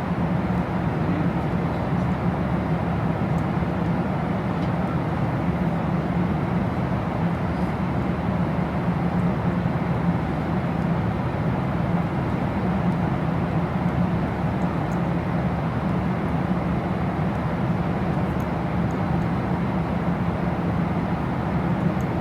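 Jet airliner cabin noise in flight: a steady, even rush of engine and air noise with a low hum underneath.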